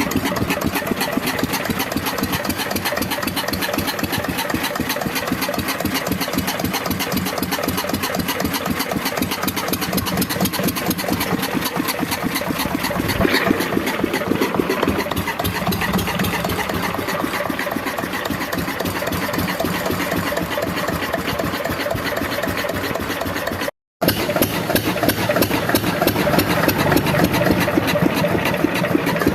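Lister-type diesel engine driving a water pump, running steadily at full throttle with an even, rapid beat of firing strokes. The sound breaks off for an instant about two-thirds of the way through, then carries on slightly louder.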